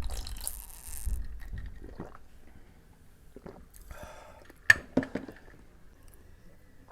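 Wet eating sounds from someone eating boiled eggs in curry: squelching and chewing, loudest in the first second, with two sharp clicks about five seconds in.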